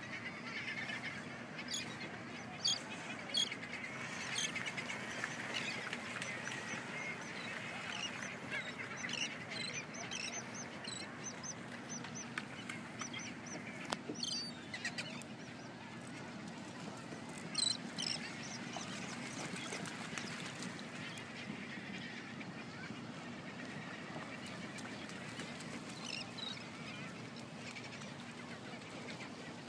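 A continuous chorus of many sea lions barking and honking, with scattered short sharp sounds, busiest in the first half.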